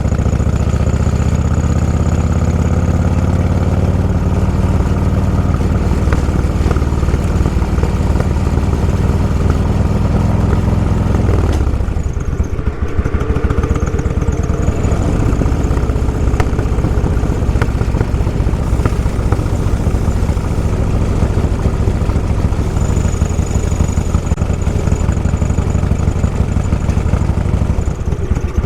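Motorcycle engine running on the move, its note climbing gently at first and then dropping sharply about eleven seconds in before settling into a steady lower note.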